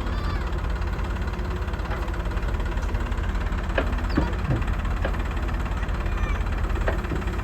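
Heavy diesel engine running steadily with a low, even rumble, and a few short knocks about four seconds in and again near seven seconds.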